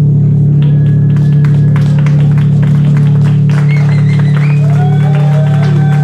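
Live noise music: a loud, steady low drone with scattered sharp clicks. From about three and a half seconds in, thin wavering high tones glide in over the top.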